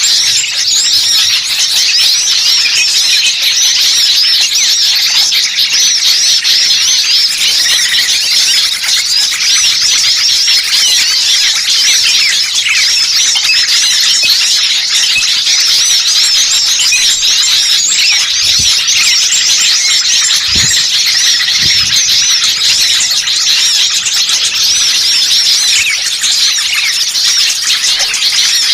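A dense chorus of many small songbirds chattering and calling at once, rapid high chirps and trills overlapping without a break. It is a bird-lure recording of noisy small birds, played to attract wild birds.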